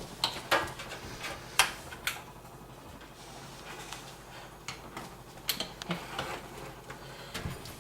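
Scattered light clicks and taps of cables and plastic connectors being handled and fitted inside a computer case, several sharp ticks spaced irregularly about a second apart.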